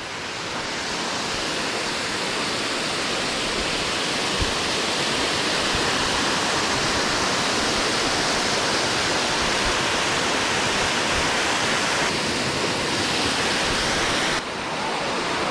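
Waterfall: a loud, steady rush of falling water with no letup, which drops suddenly in level about a second before the end.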